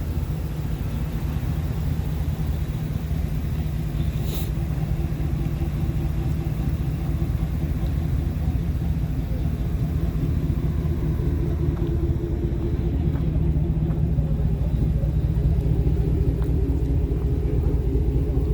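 Motorcycle engine running steadily under way, a continuous low rumble with a steady hum that grows slightly louder in the second half.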